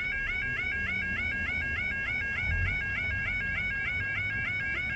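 Level crossing's electronic yodel alarm sounding without a break, a repeating rising yelp about three to four times a second. It keeps going because a barrier has stuck and the crossing has failed.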